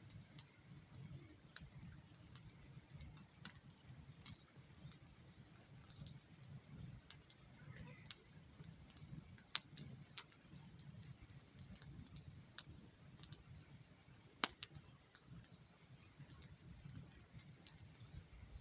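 Small wood campfire crackling faintly, with sparse, irregular sharp snaps and two louder pops, one about halfway through and one about three-quarters through.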